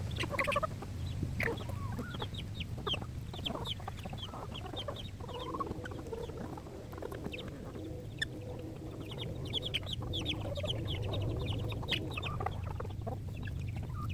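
Chickens clucking, with many short high calls scattered throughout over a steady low rumble.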